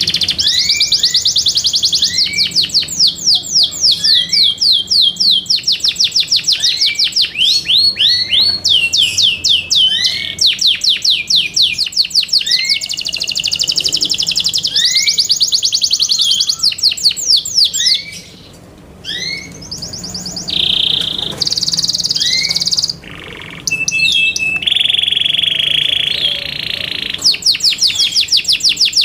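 Yorkshire canary singing: long fast trills of rapidly repeated sweeping notes, broken by a couple of short pauses, with a held whistled note near the end.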